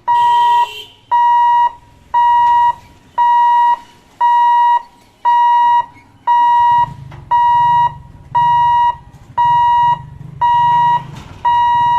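Level-crossing warning alarm: a loud electronic tone beeping about once a second, each beep just over half a second long. A low rumble joins about halfway through.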